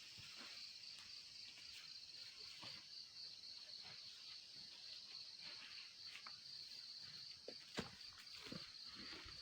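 Night insects trilling steadily in one high, even band, with scattered small clicks and rustles and one sharp click near the end.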